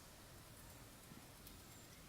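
Near silence: a faint steady hiss with a few light ticks.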